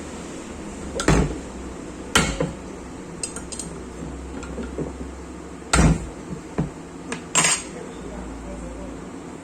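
Metal tools and angle-grinder parts clinking and knocking as they are handled in disassembly: a handful of sharp, separate metallic strikes with small ticks between them.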